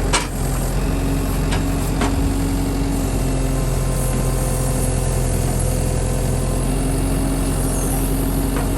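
Diesel engine of a forestry machine running steadily at idle during an operation check. A sharp click comes just after the start, and two fainter ones follow about one and a half and two seconds in.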